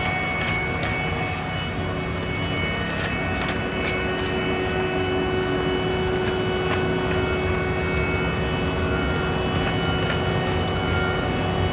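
Heavy diesel paving machinery running steadily, a constant engine hum with a few short sharp clicks near the end.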